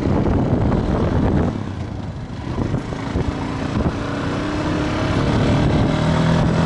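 Viper V250C cruiser motorcycle's engine and exhaust while riding, with wind on the microphone. The engine note drops off about one and a half seconds in, then builds again as the bike pulls away.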